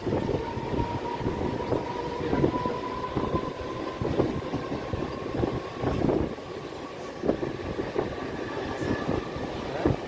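Electric suburban local train running at speed, heard from inside the coach: a dense rumble of wheels on rail with irregular clatter and knocks, over a steady whine that rises slightly in pitch.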